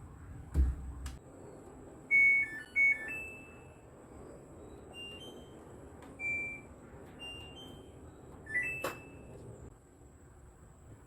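Short electronic beeps at a few different pitches, in little tune-like groups, from a household device's beeper. A dull thump about half a second in and a sharp click near the end.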